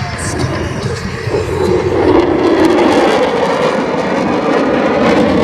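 Jet noise from a Boeing F/A-18 Super Hornet's twin GE F414 turbofans as the fighter flies by, growing louder about two seconds in and staying loud.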